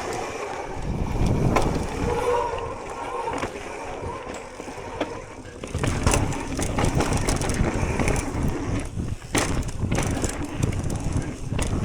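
Propain electric mountain bike ridden along a dirt trail: tyre noise on dirt and rock with rattling and knocks from the bike over bumps, and wind on the microphone.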